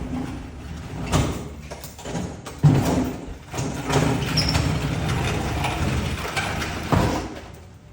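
A large refrigerator being rolled on its wheels and shoved into place: sharp knocks about a second in, near three seconds and again near the end, with a rattling rumble of rolling in between.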